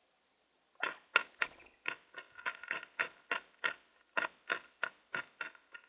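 A bird giving a rapid series of short, sharp calls, about three a second, starting about a second in.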